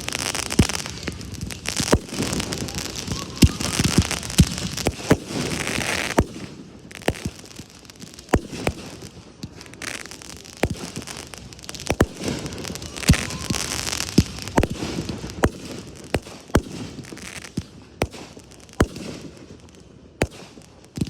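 Fireworks display: many sharp bangs of bursting shells at irregular intervals over a hissing, crackling haze. The bangs are thickest in the first six seconds and again about twelve seconds in.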